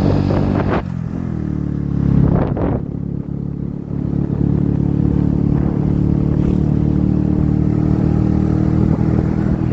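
A vehicle engine running steadily at an even speed, with two short noisy swells near the start.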